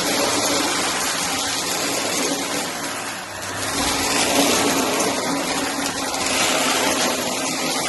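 Shark vacuum cleaner running and sucking up bits of cardboard: a steady motor hum under a rushing hiss that dips briefly about three seconds in, then swells again.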